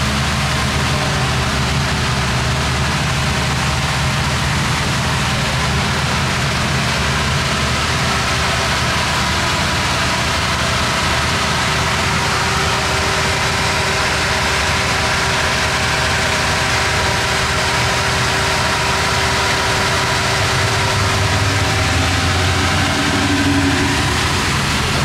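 Turbocharged V8 swapped into a Buick Turbo T, idling steadily with a deep, even note. A little before the end the note briefly shifts and swells slightly.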